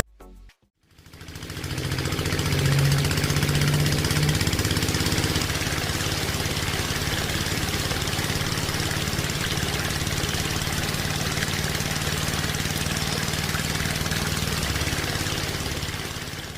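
An engine running steadily with a rapid, even knock; it fades in about a second in and fades out near the end.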